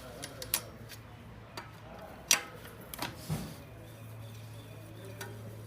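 Scattered sharp clicks and knocks, about five, the loudest a little over two seconds in, over a steady low hum.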